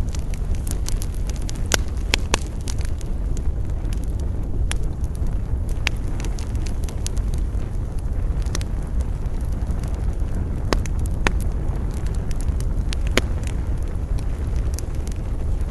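Wood campfire crackling, with irregular sharp pops over a steady low rumble of wind.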